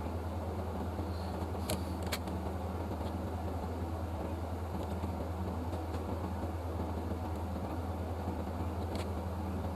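Steady low electrical hum with a fan-like hiss, with a few faint clicks about two seconds in and again near the end.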